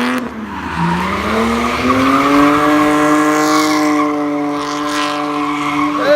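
Car engine revving hard while its tires spin and squeal. The revs dip just after the start, climb again, and then hold high and steady.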